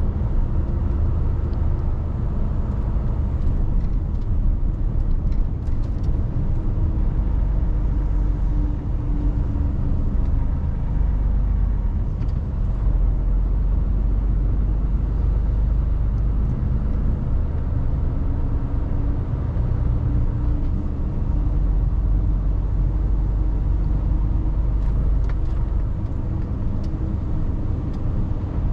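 Mercedes-Benz Actros truck's diesel engine running while driving, heard from inside the cab: a steady low rumble whose pitch rises and falls gently with engine speed, with a few faint clicks.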